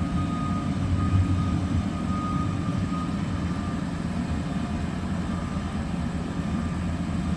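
Heavy diesel construction equipment running steadily at a road-base job, a low rumble with a faint high whine in the first half.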